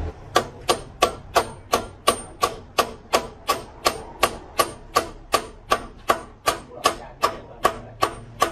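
Hammer striking metal in a steady rhythm, about three sharp ringing blows a second.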